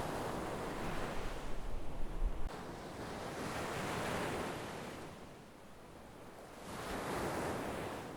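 Sea waves breaking and washing up the shore, rising and falling in three swells, with a low buffeting rumble in the first couple of seconds.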